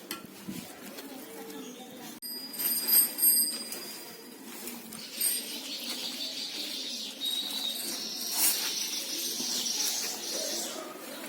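Hands mixing and kneading wet rice-flour dough in a bowl: a rough, crackly rustle that runs through the second half. About three seconds in there is a brief high-pitched sound, the loudest thing here.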